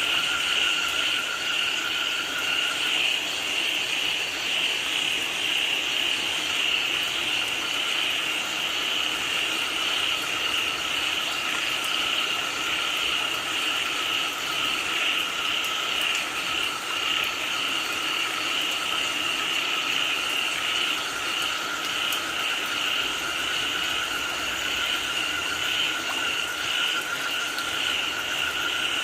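A chorus of frogs calling steadily over the even hiss of falling rain; one lower-pitched group of callers falls quiet for a few seconds early on, then resumes.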